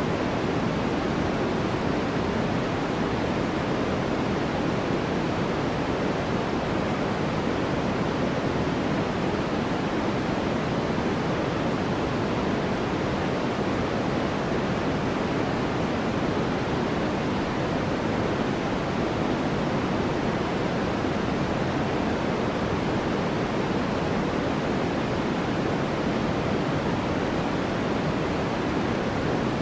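Continuous sleep white noise: an even, unchanging hiss, fuller in the lower range than the highs.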